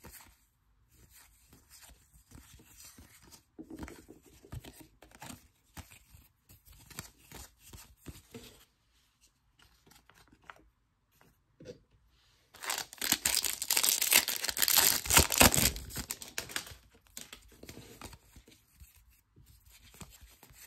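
Soft rustles and clicks of trading cards being handled, then, about twelve seconds in, a loud crinkly tearing lasting some four seconds as a plastic trading-card pack wrapper is ripped open.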